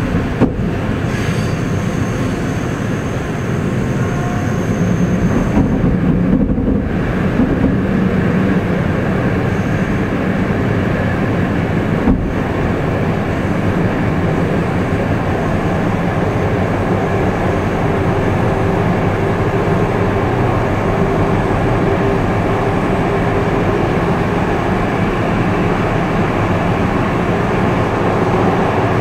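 Steady rumble of a passenger train running on the rails, heard from inside the carriage, with one sharp knock about twelve seconds in.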